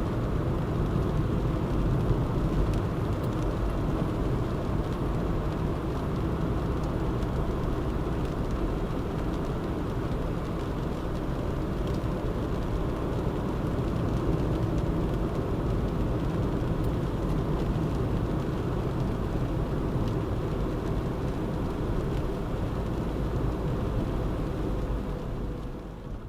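Steady engine and tyre noise of a moving car, a low rumble with a faint steady hum, fading out at the very end.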